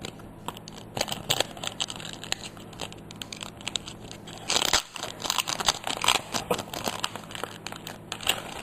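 Foil trading-card booster pack crinkling and being torn open, a run of crackling rustles that is busiest in the middle.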